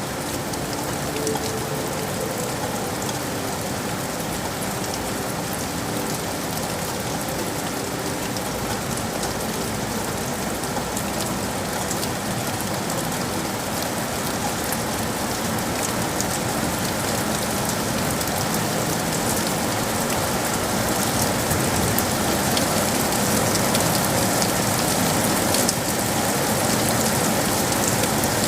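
Steady rain falling in a city: a dense patter of many small drop ticks over a constant hiss, growing a little louder in the second half.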